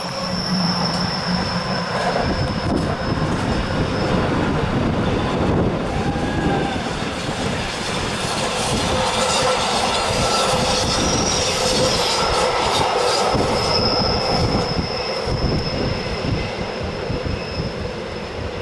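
Rhaetian Railway passenger train running over the rails, a steady rumble with its wheels squealing on the curve: a thin, high, drawn-out squeal for the first few seconds and again through much of the second half.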